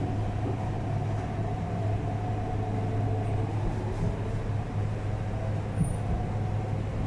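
Interior of an MTR R-Train electric multiple unit running on the track: a steady low hum under a faint, held whine and even running noise.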